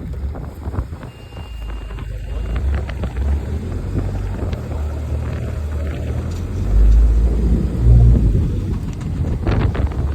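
Vehicle engine running with a low, steady rumble that grows louder for a couple of seconds about two thirds of the way through, with wind buffeting the microphone.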